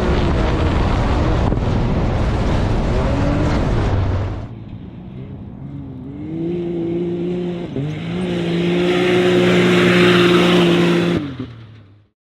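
A car engine revving hard: a loud, noisy stretch for the first few seconds, then the engine held at high revs as a steady pitched note with small dips. It fades and cuts off near the end.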